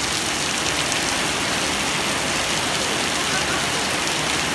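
Steady rain falling on a wet gravel yard and puddles.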